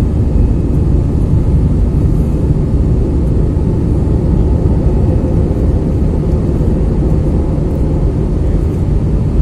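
Airliner landing: a steady, loud low rumble of engine and airflow noise that holds even throughout.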